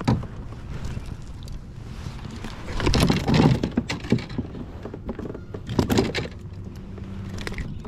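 Knocks and rattling clatter of fishing gear being handled in a kayak, in two bursts about three and six seconds in.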